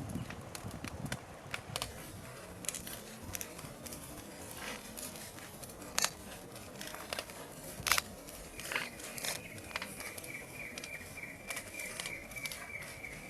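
Burning timber pile crackling, with irregular sharp pops, two louder ones about six and eight seconds in. A thin, steady high whistle joins about two-thirds of the way through.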